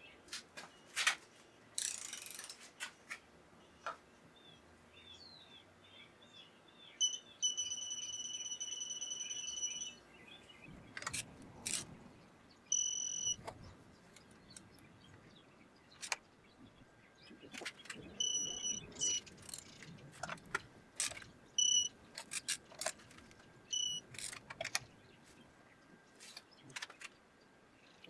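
Electronic beeping from a digital torque wrench as head bolts are torqued: one long beep of about three seconds in the first half, then several short beeps later on, among sharp clicks and knocks of the tool on the engine.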